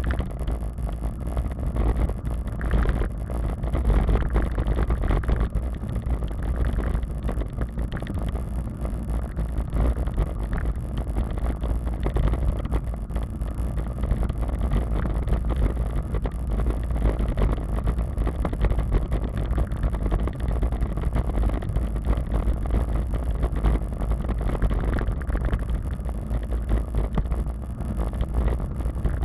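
Wind buffeting the microphone of a camera riding along on a moving bicycle, a steady low rumble, mixed with tyre and road noise.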